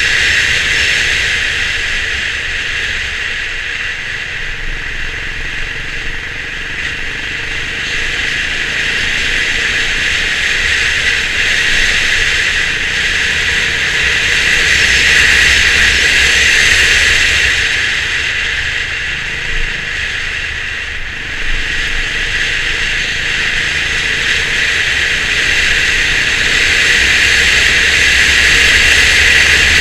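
Honda CB350 RS's single-cylinder engine running on the move, under a steady hiss of wind and road noise that swells and eases every few seconds.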